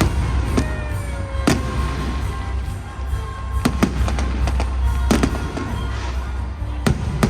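Fireworks bursting in the sky: about eight sharp bangs at irregular intervals, some in quick pairs, over stadium music playing on the PA.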